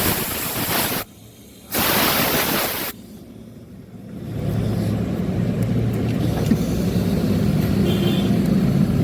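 Two bursts of loud hissing noise, each about a second long, then a Yamaha Lexi scooter's single-cylinder engine running steadily at idle from about four seconds in.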